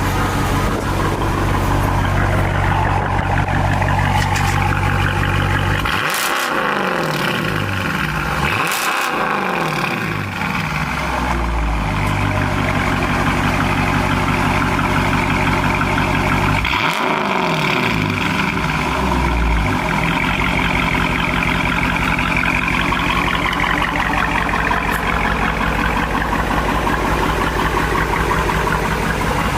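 Dodge Challenger with a newly fitted aftermarket exhaust, idling with a steady, loud note and revved three times, about 6, 9 and 17 seconds in. Each rev rises for a couple of seconds, then drops back to idle.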